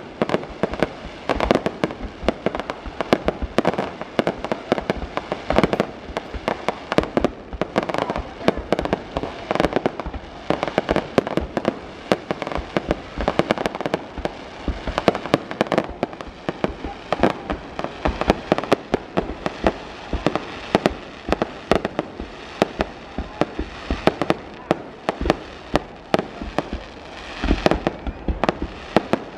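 Fireworks display going off: a rapid, continuous run of shell bursts and crackling bangs, several a second, echoing between them.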